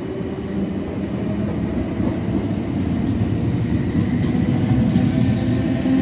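Class 707 Siemens Desiro City electric multiple unit running, with steady rumbling running noise and a motor hum whose pitch rises slightly near the end.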